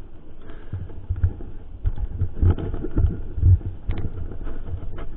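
Mountain bike riding over a rough trail, picked up by a GoPro's microphone: irregular low rumbling and thumps from the bumps, with scattered sharp clicks and rattles.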